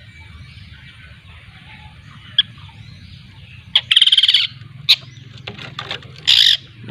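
Young long-tailed shrike (cendet) chattering in harsh, raspy bursts: a loud burst a little past halfway, a short call just after, a few weaker notes, and another loud burst near the end.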